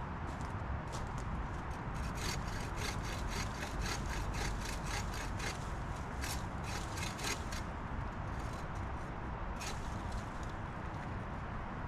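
Hand saw cutting through a fallen branch, quick back-and-forth strokes about three or four a second for several seconds, then a few slower strokes near the end.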